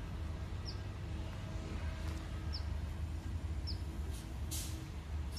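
A small bird repeats a short, high, falling chirp four times, over a steady low rumble with a brief hiss about four and a half seconds in.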